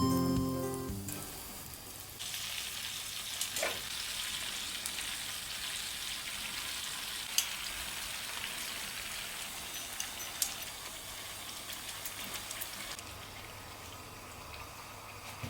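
Oil sizzling in a pan of frying food, a steady hiss with a few sharp pops, starting about two seconds in and dying down near the end. Background music fades out at the start.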